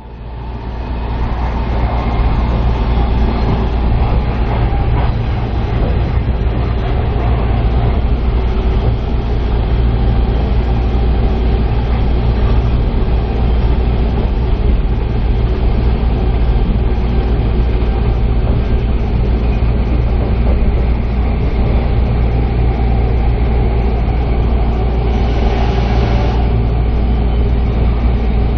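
Steady running noise of a Super View Odoriko (251 series electric train) heard from on board, a deep rumble with rail noise over it. A short burst of hiss comes about 25 seconds in.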